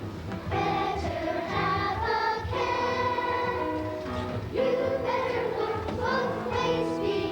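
A choir of children singing together, in held notes that change pitch every half second to a second.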